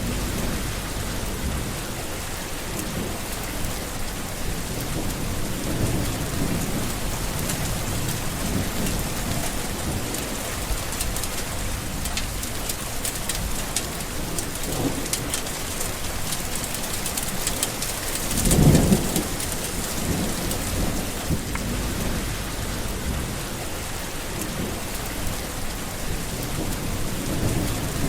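Steady rain falling, with low rolling thunder rumbling throughout and one louder clap of thunder about two-thirds of the way through.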